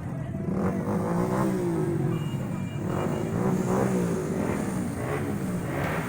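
Motor vehicle engines running and revving as they go by, their pitch rising and falling several times.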